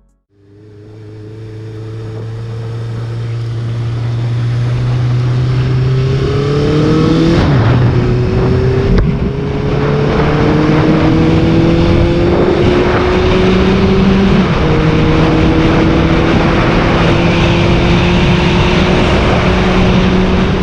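Honda CBR650F's inline-four engine through an Arrow full-system exhaust, pulling under steady acceleration with its note slowly rising, and a gear change about a third of the way in and another near the middle. Wind noise builds with the engine and grows louder over the first few seconds.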